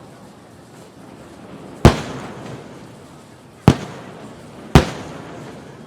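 Aerial firework shells bursting: three sharp bangs, about two seconds, then one second apart, each trailing off in a rolling echo.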